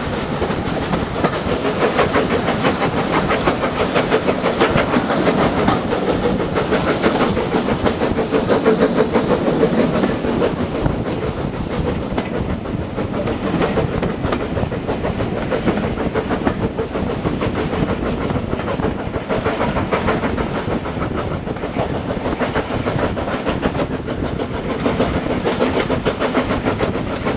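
A train running along the track, with a steady clatter of wheels over the rails and some hissing.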